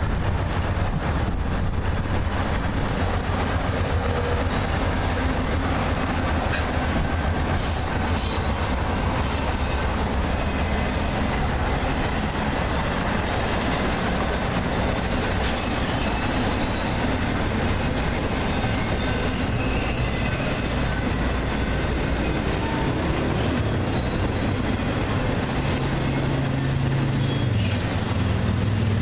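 Freight train rolling past: the cars' wheels clatter over the rails under a steady low drone, with faint high wheel squeal in the middle stretch.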